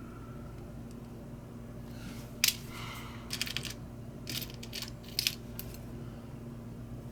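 Small metal parts clicking and tapping together in several short clusters about two and a half seconds in and through the middle, over a steady low hum.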